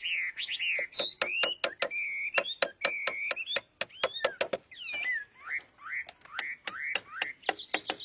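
Repeated short, high chirping calls of a small animal that slide up and down in pitch, with many sharp clicks scattered among them.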